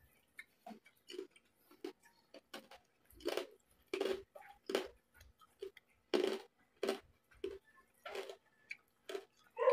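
Close-miked chewing of crispy pork and vegetables: a dozen or so separate, sharp mouth clicks and crunches, irregularly spaced about one or two a second.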